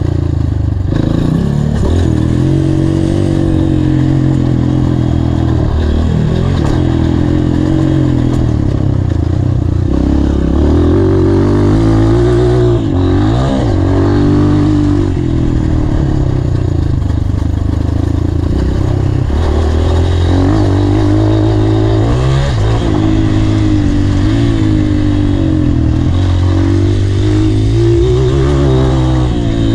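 Honda CRF230 dirt bike's single-cylinder four-stroke engine being ridden hard, its pitch climbing and dropping again and again as the throttle is worked.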